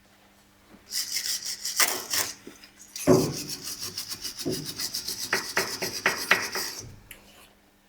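Old rubber anti-roll bar bushing being worked off the steel bar, rubber rubbing and rasping against metal in quick repeated strokes. There is a short spell about a second in, then a longer one from about three seconds to near the end.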